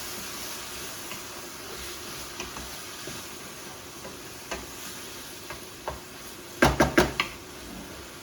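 Food sizzling in a pan on the stove while it is stirred, with small scattered clicks of the utensil. About six and a half seconds in, a quick run of four loud knocks against the pan.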